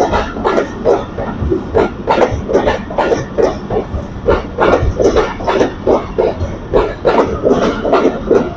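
Passenger train running on the rails, its wheels clattering over the rail joints in a rapid, steady rhythm.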